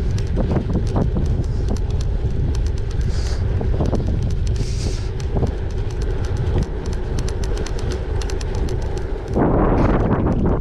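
A gravel bike riding over a loose gravel track: the tyres rumble and crunch, with many irregular sharp clicks and rattles of stones and bike parts, and wind rumbles on the microphone. A louder rushing noise swells in near the end.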